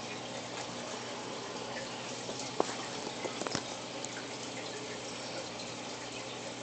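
Aquarium water trickling steadily, with a low steady hum under it. There is a sharp click about two and a half seconds in and a few softer clicks about a second later.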